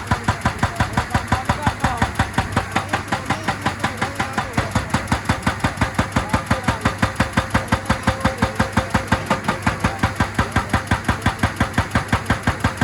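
Excavator-mounted hydraulic rock breaker hammering steadily on rock, about five blows a second without a pause, over the excavator's diesel engine running.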